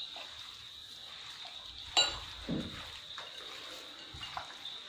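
Raw chicken pieces being mixed by hand with salt, turmeric and ground black pepper in a bowl: soft wet squishing, with one sharp clink against the bowl about two seconds in.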